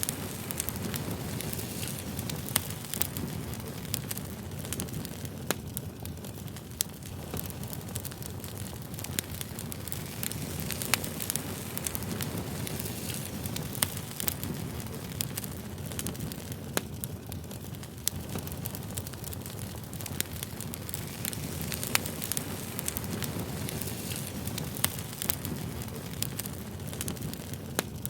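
Campfire crackling: a steady low rumble of burning wood with frequent sharp pops and snaps at irregular intervals.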